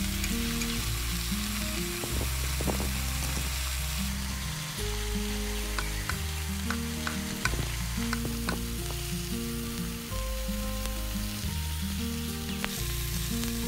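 Rice frying in a miniature steel pot: a steady sizzle, with a small metal spoon stirring and clicking against the pot several times. Background music with slow low notes plays underneath.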